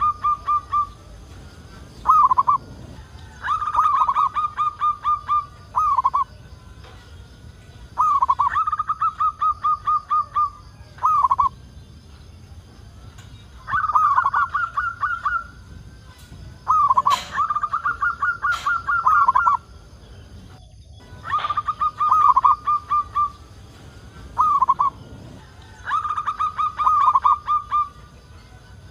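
Zebra dove (perkutut) singing: repeated cooing phrases, each a quick run of rapid notes followed by a separate short closing note, about every five seconds.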